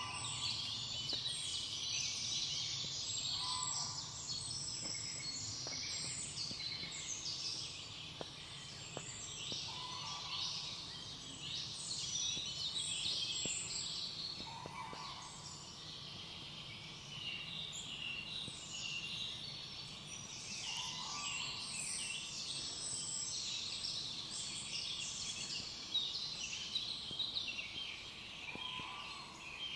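Dense chorus of many songbirds singing at once, with a lower call repeating about every five to six seconds.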